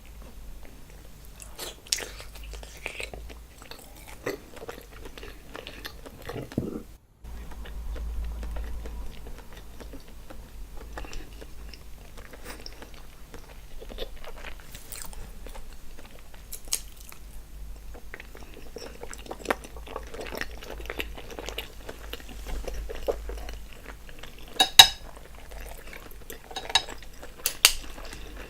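Close-miked mukbang eating sounds: chewing and biting into seafood boil, with many short, sharp clicks and cracks, the loudest two near the end.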